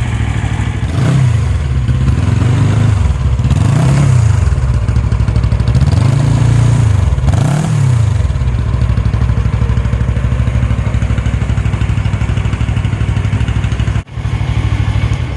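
Suzuki GS 400E air-cooled parallel-twin engine running through its exhaust, loud, blipped up and down about five times in the first eight seconds, then settling to a steady idle.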